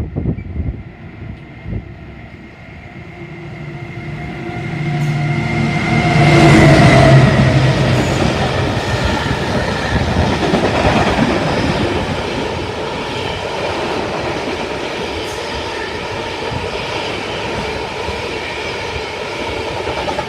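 Class 70 diesel freight locomotive passing through at speed. Its engine builds to a peak about seven seconds in, the pitch dropping slightly as it goes by, followed by the steady rumble and clatter of the freight wagons rolling past.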